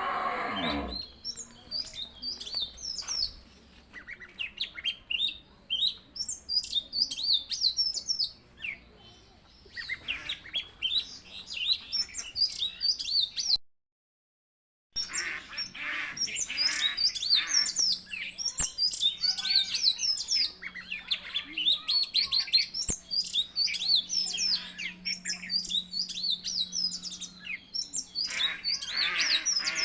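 A flock of small birds chirping and squawking continuously, many quick high calls overlapping. The sound cuts out completely for about a second around the middle, then the chatter resumes.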